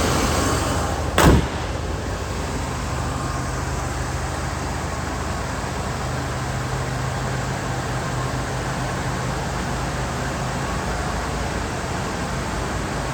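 1977 Lincoln Continental Town Car's V8 idling steadily after a cold start, with a single loud slam about a second in.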